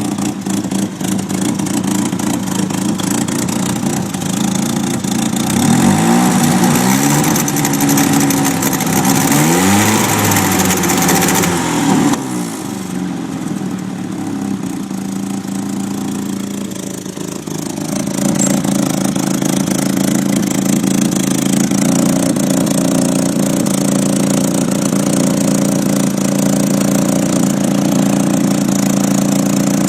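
Nissan SR20DET turbocharged four-cylinder running rough through a leaking exhaust. It is revved up and down twice about six and nine seconds in, drops quieter for several seconds, then runs on steadily. The rough, missing running is what the owner later put down to slightly overfilled oil with the car up on jacks.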